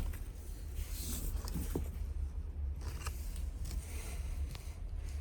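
Short rustling and scraping handling sounds with scattered clicks, over a steady low rumble.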